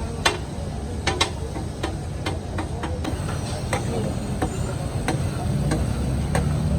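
Metal spatulas striking and scraping a large tawa as liver is stir-fried, in irregular sharp clanks about once or twice a second, over a steady low rumble.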